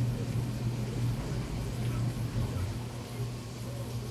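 A steady low hum over a faint background rumble and hiss.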